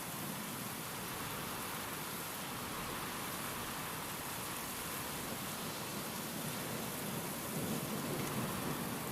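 Steady, heavy rain, with a low rumble swelling slightly near the end.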